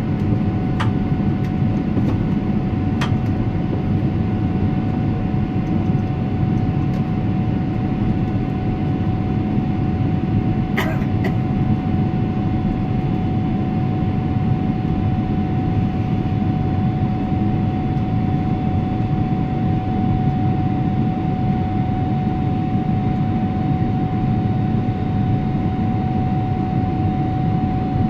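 Steady cabin noise inside a Boeing 777-300ER airliner: an even rumble of engines and airflow, with a faint steady whine above it and a few light clicks.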